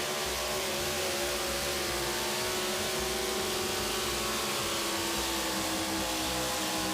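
Super modified pulling truck's engine running hard under load as it pulls the sled down the track, a steady high-revving drone whose pitch holds nearly level with slight wavering.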